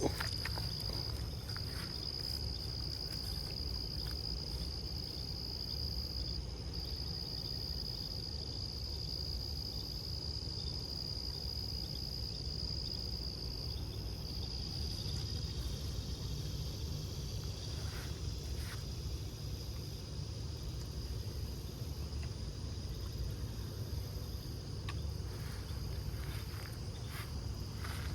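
Insects buzzing in a steady high-pitched chorus that breaks off briefly a few times, over a low background rumble.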